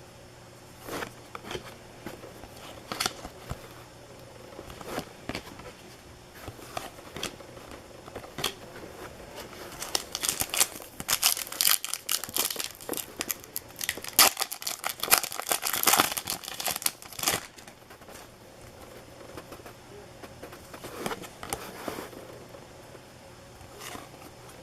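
Foil wrappers of trading card packs crinkling and tearing as packs are opened and handled, with cards being handled. The crackling comes in scattered bursts and is densest and loudest in the middle.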